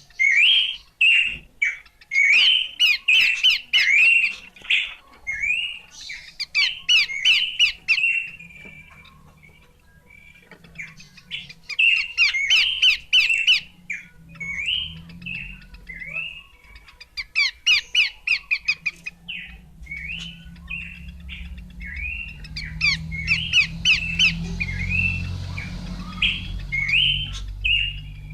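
Pelanduk semak (Horsfield's babbler) singing: repeated short whistled notes, broken by bursts of fast, high trilled notes, in phrases throughout. A low rumble underlies the song in the second half.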